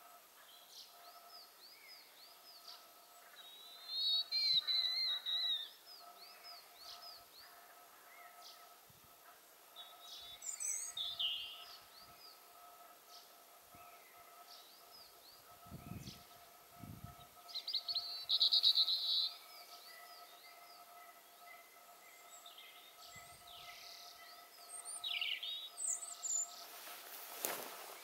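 Small woodland birds singing and calling: a thin, high phrase repeats over and over, with louder bursts of song about four seconds in and again past the halfway mark. A faint steady hum sits underneath, and a rush of noise swells near the end.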